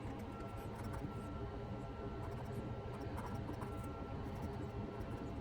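Pen scratching on paper in short irregular strokes as a poem is copied out by hand, over a steady low hum with a faint high whine.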